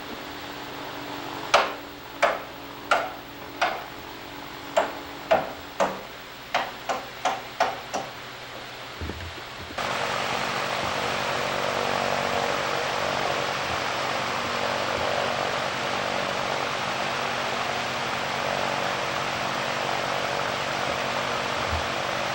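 A run of about a dozen sharp knocks, each ringing briefly, at an uneven pace of roughly two a second. About ten seconds in, a steady hissing noise starts abruptly and holds.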